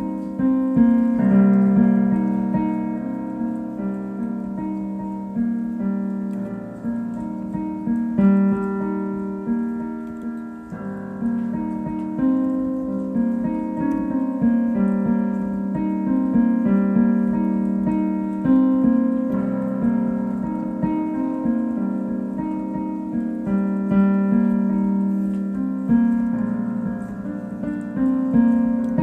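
Solo piano playing an improvised piece: held bass notes change every few seconds under repeated chords and melody notes, the sustain letting the notes ring into one another.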